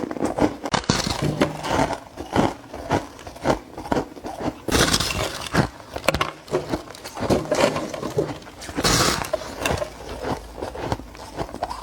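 Soft ice being bitten, crunching again and again in short sharp bites, with two longer, louder crunches about five seconds in and about nine seconds in.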